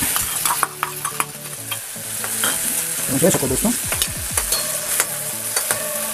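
Chopped onion and tomato sizzling in hot oil in a steel kadai, with a metal spoon scraping and clicking against the pan as it is stirred.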